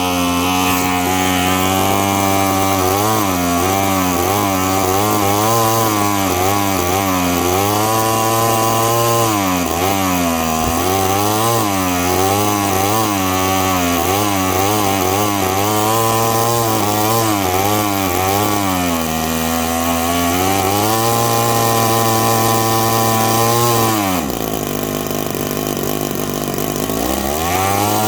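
TOYAN miniature twin-cylinder model engine running, its pitch rising and falling over and over as the throttle is blipped. Near the end it drops to a low idle for a few seconds, then revs up again.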